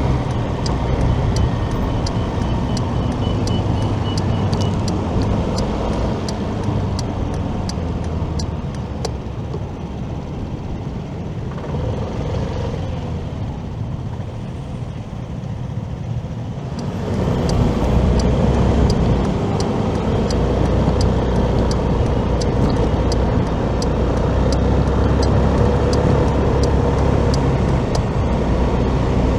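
Motorcycle running through city traffic, with engine, road and wind noise and a light ticking about twice a second. The engine drops quieter for several seconds about midway, then picks up again.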